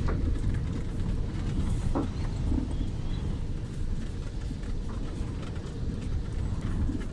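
Strong storm wind buffeting the microphone: a continuous, gusting low rumble with a faint hiss of blown sand and debris above it.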